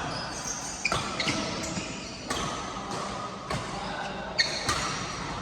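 Badminton rally: rackets striking the shuttlecock about five times at uneven intervals, the sharpest hit about four and a half seconds in, with short squeaks from shoes on the court.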